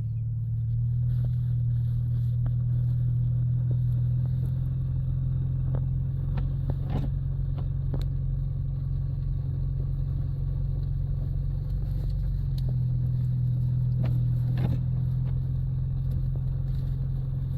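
2024 Ford Mustang EcoBoost's turbocharged four-cylinder engine pulling steadily under load, heard from inside the cabin, as the rear-wheel-drive car climbs a hill through deep snow. The engine note shifts slightly about two thirds of the way through.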